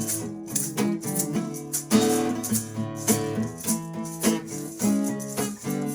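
Acoustic guitar strummed in chords with a shaker keeping a steady rhythm, an instrumental passage with no vocals.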